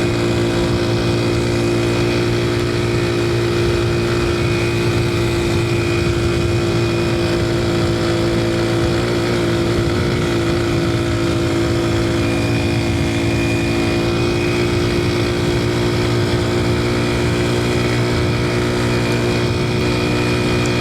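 2002 Yamaha TT-R125 dirt bike's single-cylinder four-stroke engine running at high speed while riding, holding a steady, even pitch.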